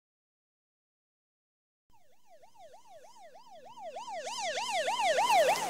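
Emergency-vehicle siren in a fast wail, sweeping up and down about three times a second. It starts about two seconds in and grows steadily louder, as if approaching.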